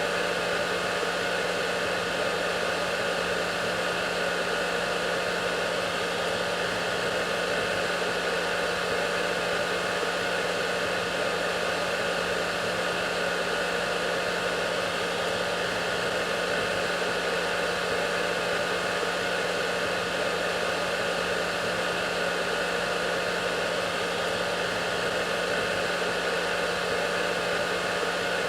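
Hair dryer running steadily: an unchanging blowing hiss with a constant motor hum underneath.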